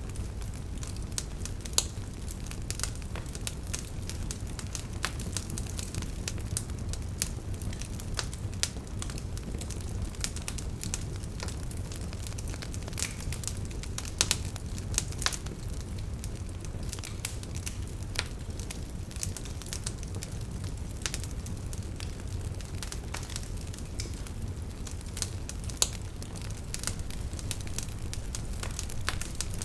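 Wood fire crackling: irregular snaps and pops over a steady low rumble of the flames, with a few louder pops scattered through.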